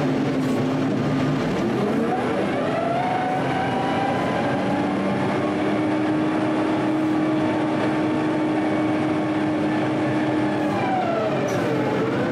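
Heavy machine's engine revving up, holding high revs for several seconds, then dropping back near the end.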